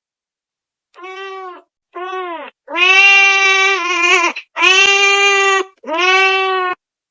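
A kitten meowing: five meows in a row, the third the longest and loudest.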